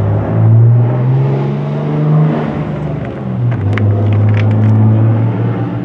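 A power tool's motor runs loudly with a socket on a bolt. Its pitch climbs over the first two seconds, dips about three seconds in, then runs steady again. A few sharp metallic clicks come around the four-second mark.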